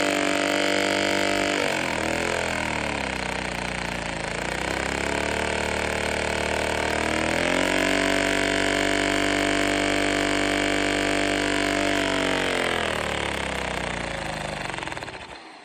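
Homemade Lego two-stroke vacuum engine running with its vacuum-cleaner suction, a loud buzzing hum. The pitch sags about two seconds in, climbs back at about the middle, sags again, and cuts off just before the end.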